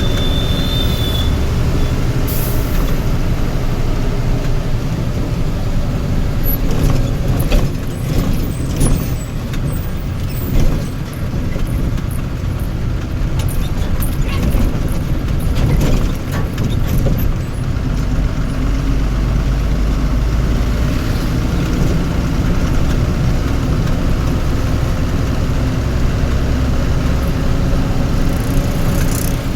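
Heavy road vehicle engine running steadily with a low rumble, with scattered knocks and rattles in the middle stretch and a brief high tone near the start.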